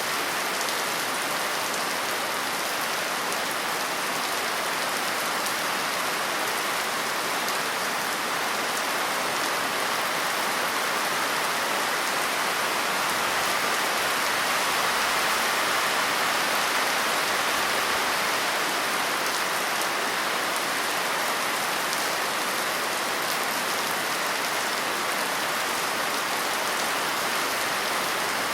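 Steady rain falling and pattering on a surface, an even hiss of many drops with no music or thunder.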